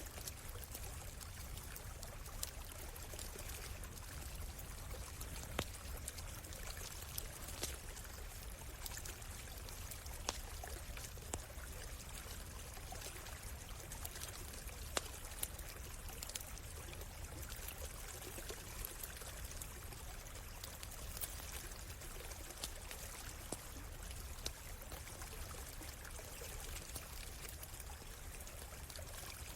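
Stream water flowing steadily, with scattered sharp pops and crackles from a wood campfire.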